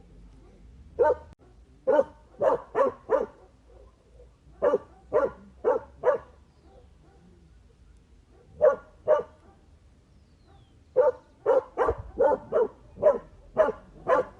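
A dog barking in bursts of quick barks: a run of about five, then four, a pause, two, and a fast run of about eight near the end.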